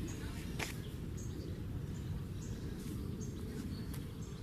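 Short high bird chirps, repeating every half second or so, over a steady low rumble, with one sharp click just over half a second in.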